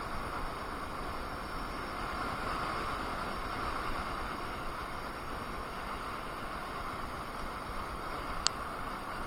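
Steady wind and road noise from riding a KingSong KS18S electric unicycle, with one short sharp click about eight and a half seconds in.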